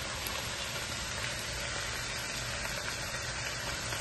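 Chopped vegetables frying in oil in a wok: a steady sizzle, with a low steady hum beneath it.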